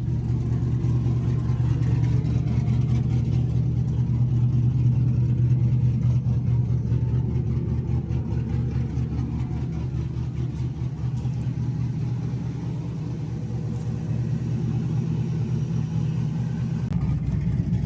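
Pickup truck engine running steadily with a low, even rumble.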